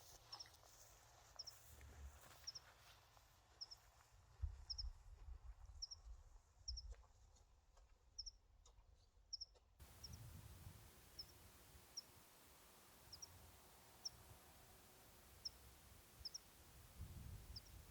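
A small songbird calling over and over, a short high chirp, often doubled, about once a second, over a faint low rumble of wind or handling.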